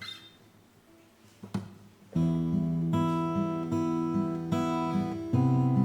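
Mantic AG620CE acoustic guitar (spruce top, mahogany back and sides) being played. A few light clicks come first; then, about two seconds in, chords ring out in a steady strummed rhythm, changing chord near the end.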